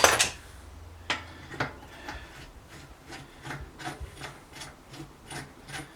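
A sharp metal knock, then a steady run of ratcheting clicks, about two to three a second, from a turning ratchet mechanism while a bicycle hub part is worked loose.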